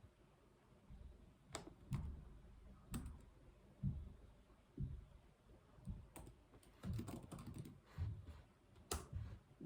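Typing on a computer keyboard: scattered single keystrokes with pauses between them, then a quicker run of keys about two-thirds of the way through.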